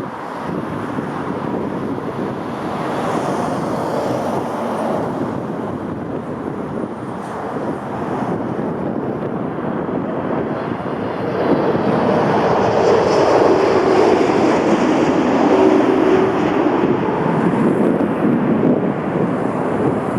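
Jet airliner engines running, a steady rushing noise that grows louder about halfway through, with a faint whine on top in the louder part. Wind buffets the microphone.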